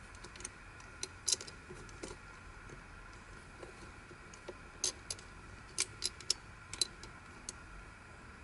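Plastic twisty-puzzle pieces of a Yileng Fisher Wheel of Time clicking and clacking as they are handled. The clicks come singly or in quick clusters of two or three.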